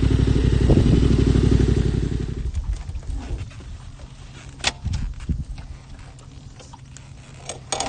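Yamaha Ténéré 700 parallel-twin motorcycle engine running, then dying away about two and a half seconds in, followed by a few light clicks and knocks.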